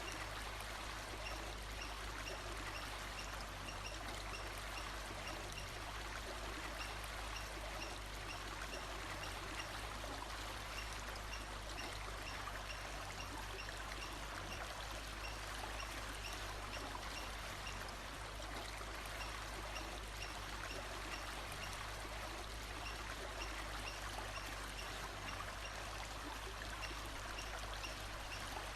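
Steady rush of a flowing stream or brook. Faint, high chirps repeat at an even pace over it.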